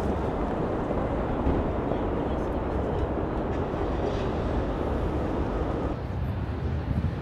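Steady rumbling vehicle noise, easing slightly about six seconds in.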